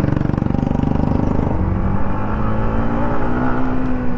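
Yamaha MT-15 motorcycle engine heard from the rider's seat while riding. It throbs at low revs, then from about a second and a half in settles into a steadier note that climbs slowly as the bike picks up speed.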